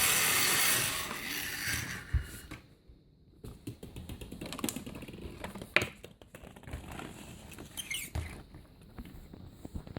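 Remote-control toy monster truck's small electric motor whirring for about the first two seconds, then cutting out, followed by scattered light clicks and taps.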